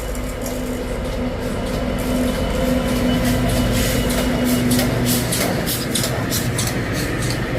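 Train passing at close range: a steady engine drone under a rapid, regular beat, loudest about midway and easing slightly near the end.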